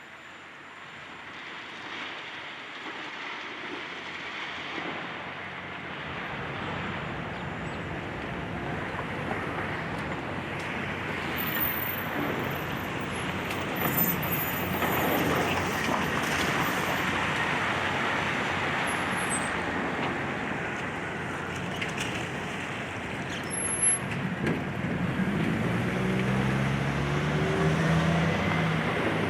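Heavy engine and road-vehicle noise that builds over the first half, with a few brief high squeals in the middle and an engine note rising near the end.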